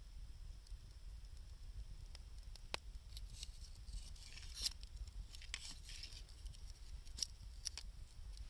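Wood fire of scrap 2×4 lumber and gathered wood crackling, with a few sharp pops and a denser run of crackling in the middle, over a low steady rumble.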